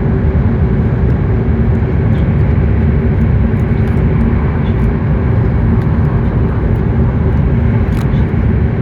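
Running noise heard inside a W7-series Shinkansen passenger car at speed: a loud, steady low rumble with a faint steady hum and a few light ticks.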